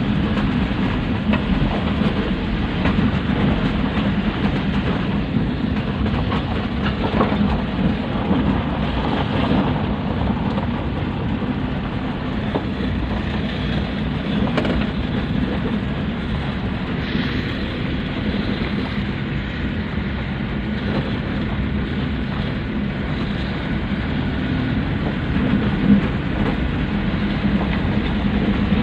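Pick-up dump truck running: a steady low engine rumble with scattered light rattles and one sharper knock near the end.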